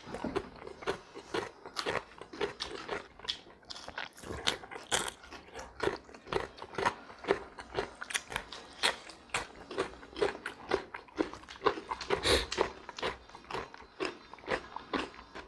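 People biting and chewing raw cucumber slices close to the microphone: a dense run of crisp, irregular crunches.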